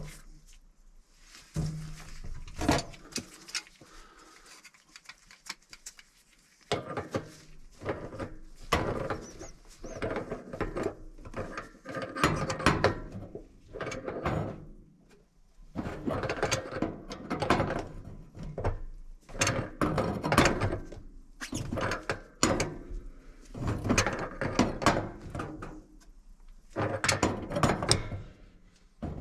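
Metal-on-metal work on threaded gas pipe being fitted to a water heater: repeated clicks, clanks and scraping in bursts, as from a pipe wrench turning doped fittings tight. A few scattered clicks come first, then the bursts run on steadily from about seven seconds in.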